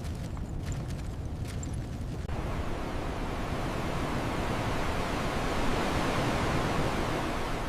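A low rumble with a few faint clicks. About two seconds in, a loud, even rushing noise like wind or water sets in abruptly and swells toward the middle.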